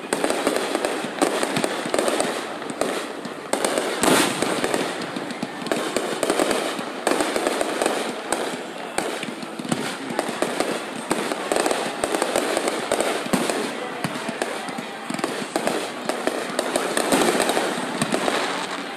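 Aerial fireworks display: shells bursting in a dense, unbroken run of bangs and crackling, several a second.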